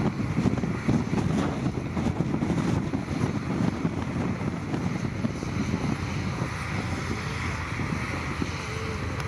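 Diesel engine of heavy earthmoving machinery running steadily under load, a deep, rough rumble.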